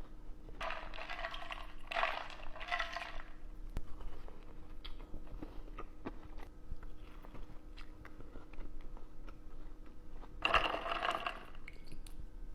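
Close-miked crunchy eating: three loud crunching bites of about a second each, two near the start and one near the end, with small mouth clicks and chewing between.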